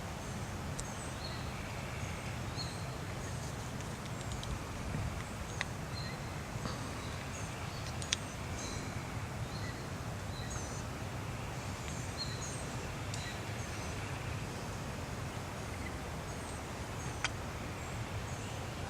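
Small birds calling outdoors: short, high chirps repeat about once a second over a steady low background rumble, with a few faint clicks.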